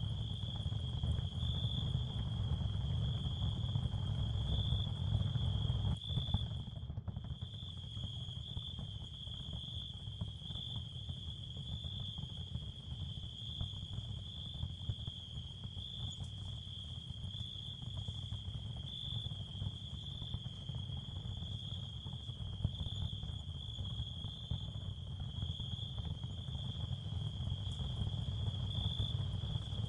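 Ambient sound field for tinnitus and sleep: a steady, faintly pulsing high chirring like crickets over a constant low rumble. It drops out for a moment about seven seconds in.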